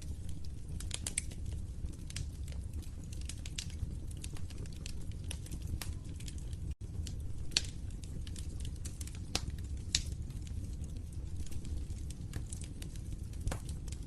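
Wood fire in a fireplace crackling, with irregular sharp pops and snaps over a steady low rumble of burning; two louder pops come about halfway through and again a few seconds later. The sound cuts out for a split second just before the middle.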